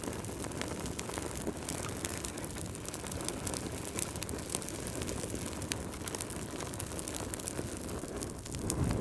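Wood fire crackling: a steady low rushing with frequent small sharp pops and snaps, swelling in the low part near the end.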